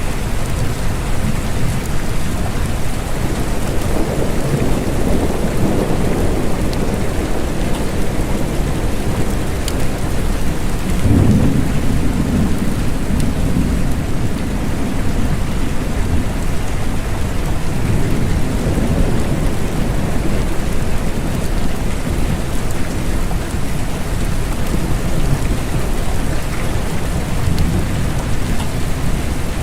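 Steady rain with low, rolling thunder swelling and fading several times, the strongest roll beginning about eleven seconds in.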